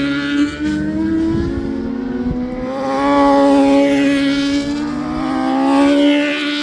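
Racing motorcycle engines running at high revs, the sound swelling and easing off three times as the bikes pass.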